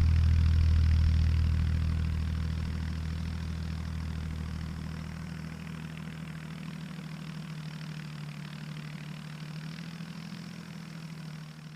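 Tractor engine running steadily, growing quieter over the first several seconds and then holding at a lower level.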